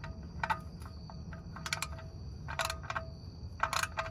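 Ratchet wrench clicking in four short bursts about a second apart, each with a brief metallic ring, as the oil filter is tightened down by hand-tool strokes.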